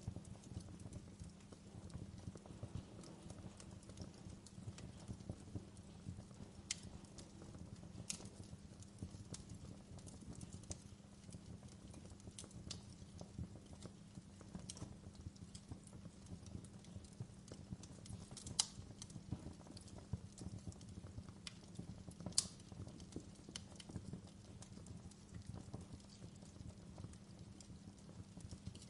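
Wood fire burning with a steady dense crackle, broken by a few sharper pops of burning wood, the loudest two coming a little past halfway.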